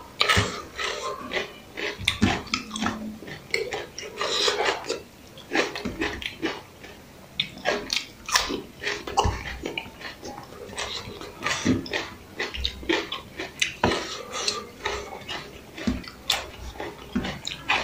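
Close-miked chewing and lip-smacking as a mouthful of vegetable biryani is eaten by hand, an irregular run of wet clicks and smacks. About eight seconds in, a slice of raw onion is bitten and chewed.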